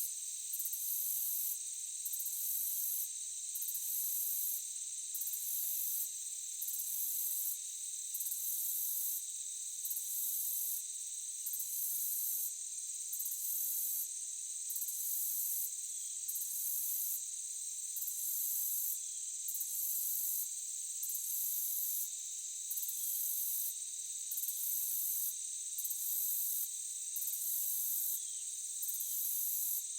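Insects, crickets among them, chirping in a dense steady high-pitched chorus, with a very high trill that pulses on and off about every second and a half.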